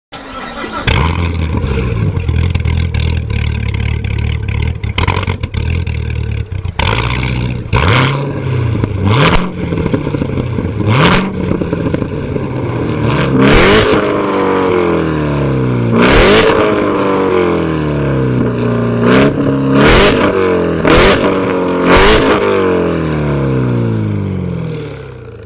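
A performance car engine running steadily, then revved again and again from about seven seconds in: the pitch climbs and drops back repeatedly, with sharp cracks at several of the peaks.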